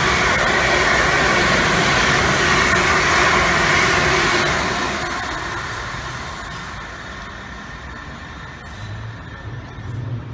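South Western Railway Siemens Desiro electric multiple unit passing at speed, its wheels running loud on the rails. The sound fades about five seconds in as the rear of the train goes by, leaving a quieter rumble.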